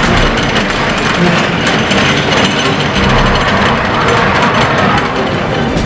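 Cargo ship's diesel engine running under way: a loud, steady mechanical clatter.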